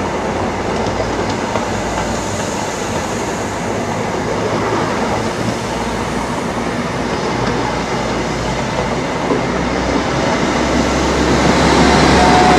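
High Speed Train (InterCity 125) passing at speed: a steady rush of wheels on the rails with a light clickety-clack, growing louder near the end.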